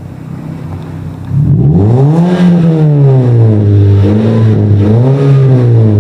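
Toyota Vios engine through an aftermarket stainless bolt-on exhaust with the resonator deleted, idling and then revved. The first rev rises about a second in and falls back, followed by two smaller blips. The note is loud but full, not raspy.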